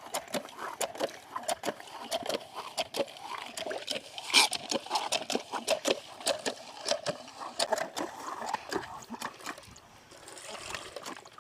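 Water splashing and trickling in irregular small splashes, several a second, with one louder splash about four seconds in. The splashing eases to a softer trickle near the end.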